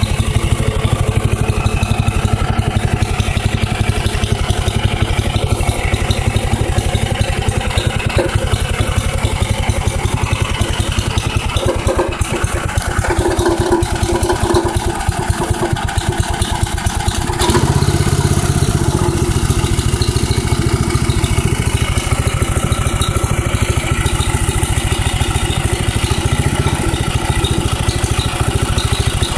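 Robin single-cylinder engine of an HM-802 plate compactor running, with a fast, even engine beat and the rattle of the vibrating plate. About 17 seconds in the sound steps up, heavier and louder in the low end.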